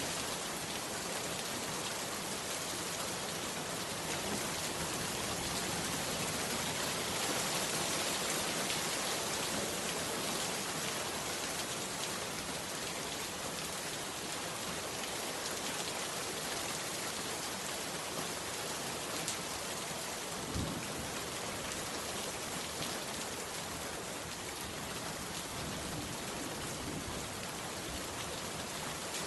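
Heavy rain falling steadily, with scattered individual drops ticking and one brief low knock about two-thirds of the way through.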